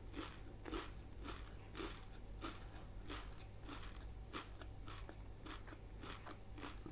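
A person chewing crunchy fried takeaway food with the mouth close to the microphone, a steady run of faint crunches about two a second.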